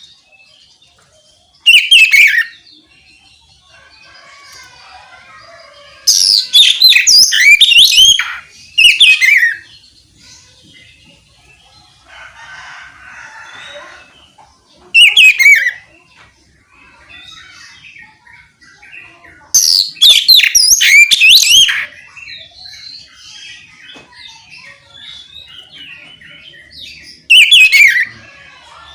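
Oriental magpie-robin (kacer) singing in six loud bursts of rapid notes, many swooping down in pitch, with pauses of quieter chattering between them.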